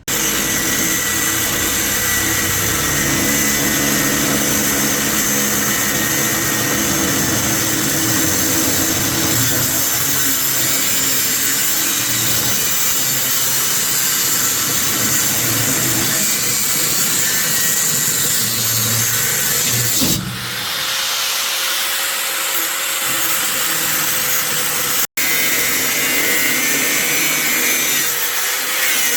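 A handheld power tool running continuously, working against a surface; its sound changes about two-thirds of the way through, and it cuts out for an instant shortly after.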